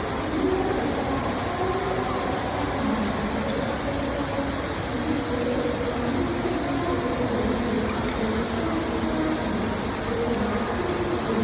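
15-metre indoor waterfall pouring steadily: a constant, even rush of falling water. Faint, indistinct voices come and go beneath it.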